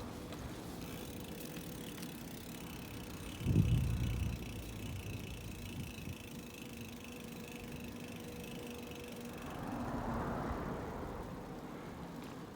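Riding noise from a bicycle: steady tyre and road rumble with wind on the microphone. A low thump comes about three and a half seconds in, like a bump in the road, and a swell of noise rises and fades around ten seconds in.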